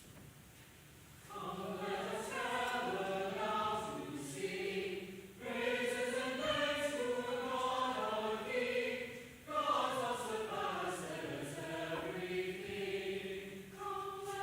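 Church choir singing, starting about a second in from near quiet, in phrases with two short breaks for breath.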